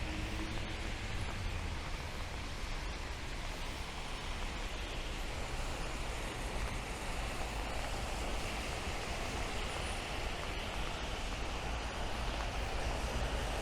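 Steady rain falling on a city street, with a continuous low rumble of traffic underneath.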